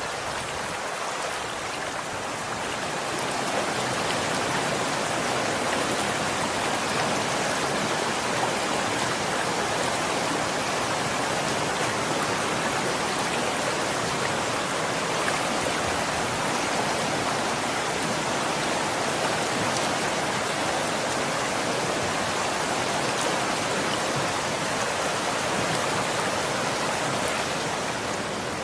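Running water flowing steadily, a continuous rushing hiss like a stream, growing a little louder about three seconds in.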